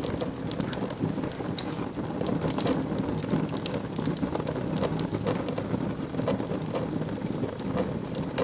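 Wood fire burning in a fireplace: a steady low rumble of flames with frequent sharp crackles and pops, one louder pop about one and a half seconds in.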